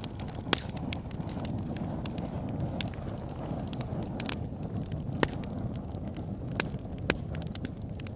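Wood fire burning in a fireplace: a steady low rush of flames with frequent sharp crackles and a few louder pops from the burning logs.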